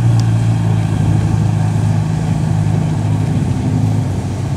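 Ferrari F40's twin-turbo V8 running at low revs as the car rolls slowly past, a loud, steady deep note.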